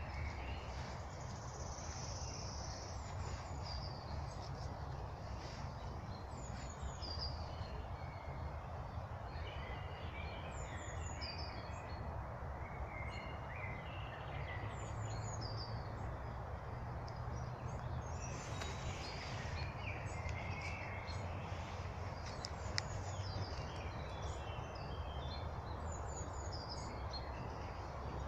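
Several small songbirds singing and chirping in a spring forest, with short repeated trills and chirps throughout, over a steady low background rumble.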